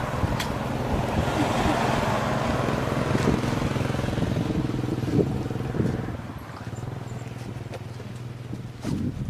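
A motor vehicle's engine running steadily, with a rushing noise that swells over the first few seconds and fades after about six seconds, leaving a lower, steadier engine hum.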